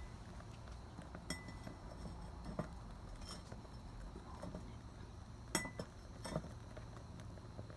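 A handful of sharp clicks and light clinks, spaced irregularly, over a faint low steady hum. Two of the clicks ring briefly like metal or glass being tapped.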